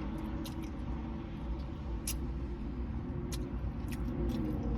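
Steady low vehicle rumble heard from inside a parked car, with a few faint, sharp clicks scattered through it.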